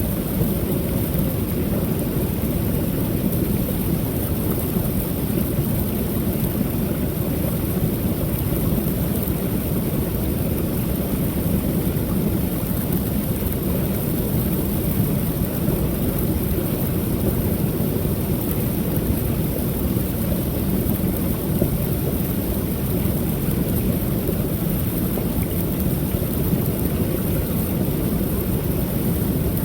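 Creek waterfall: falling water pouring steadily, a deep, even rush with no breaks or changes.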